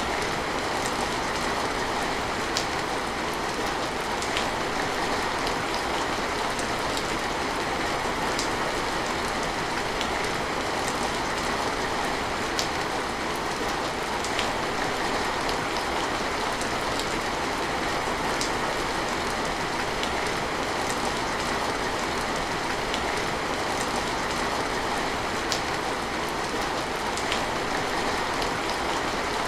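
Steady rain falling, a constant even hiss with scattered sharp drop ticks.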